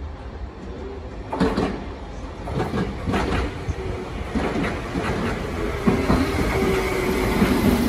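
Tokyo Metro Tozai Line electric commuter train approaching and running past close by, its wheels clattering over the rail joints in repeated sharp clicks from about a second in, getting louder as it nears. A steady hum joins in near the end.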